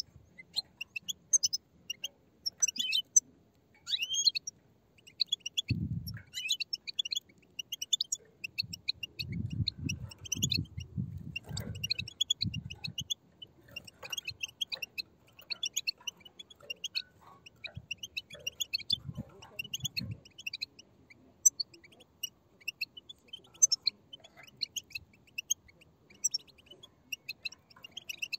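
A group of European goldfinch chicks giving rapid, overlapping high chirping begging calls without a break. Several low dull thumps come in about a fifth of the way in, in a cluster just before the middle, and again about two-thirds of the way through.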